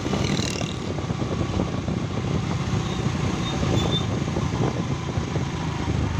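A road vehicle driving along, with a steady low rumble of engine and road noise.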